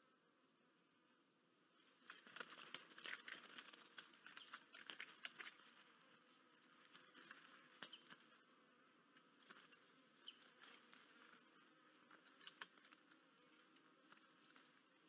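Faint water splashing and wing fluttering at a bird bath, a quick run of small patters that begins about two seconds in, eases off, then picks up again.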